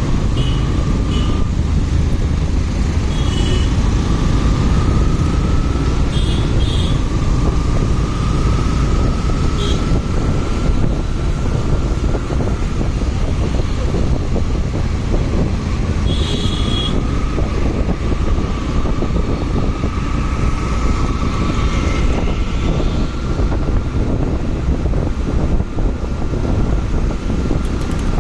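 Motorcycle riding in traffic: the engine runs under a steady rush of wind and road noise. Its whine climbs slowly through each gear and drops back at the shifts. A few short high-pitched beeps cut through, a few seconds apart.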